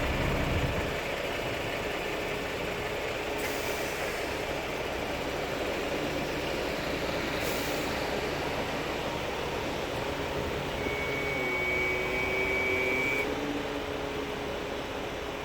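Bombardier Flexity 2 tram running, a steady rumble with a low drive hum that dips and recovers, two short hisses in the first half, and a thin high whine for a couple of seconds in the second half.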